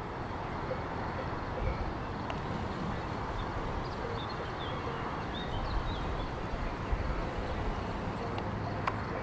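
Faint, distant cowbells on grazing cows, heard as scattered light clanks over steady outdoor noise, with low wind rumble on the microphone in places.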